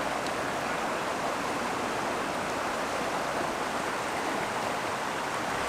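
River flowing close by: a steady rush of water.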